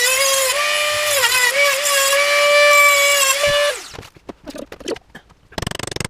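Dremel rotary tool with a cut-off disc whining at high speed as it cuts a slot into a steel wheel-bearing outer race, its pitch dipping and recovering as it bites into the metal. It stops abruptly about two-thirds of the way through, followed by faint clicks and a short scraping rasp near the end.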